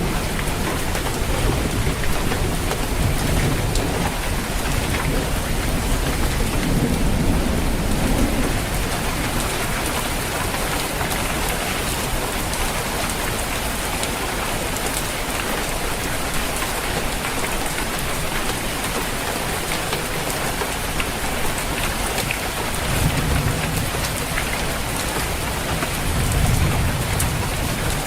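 Steady heavy rain on a roof, with low thunder rumbling in the first several seconds and again near the end.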